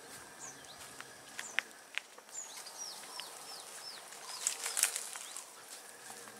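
Wild birds calling: a run of about five short falling whistles in the middle, with a few sharp clicks and a brief burst of rustling a little past two thirds of the way in.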